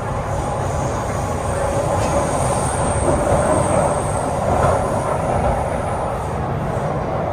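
MTR C-Train metro car running at speed, with steady rumbling wheel and running noise. A thin high-pitched whine rides over it for a few seconds in the middle.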